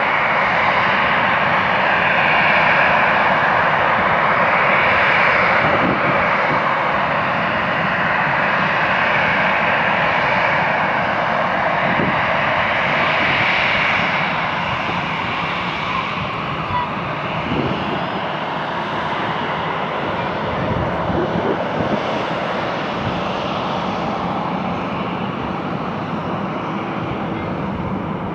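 Airliner engines running, a steady loud rush of engine noise that eases off gradually over the second half.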